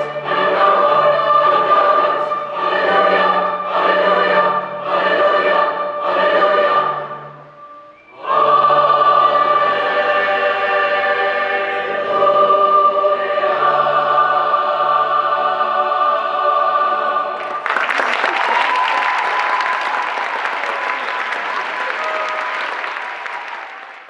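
School choir singing a holiday piece in pulsing phrases, breaking off briefly, then holding a long final chord. About 18 seconds in, the singing gives way to audience applause, which fades out at the end.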